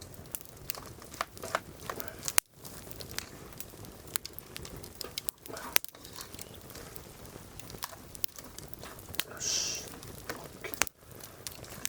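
Firewood burning in a campfire, crackling with irregular sharp pops, and a brief hiss about three-quarters of the way through.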